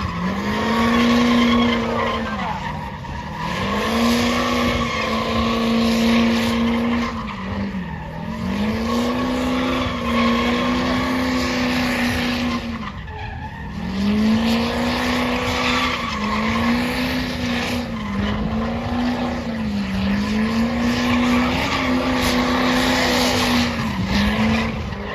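Truck doing a burnout: the engine is held at high revs with tires spinning and squealing, its note dipping briefly and climbing straight back every few seconds.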